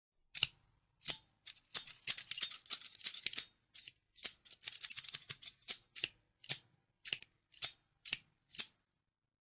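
Scissors snipping: a few single snips, then two quick runs of rapid cuts, then single snips about twice a second.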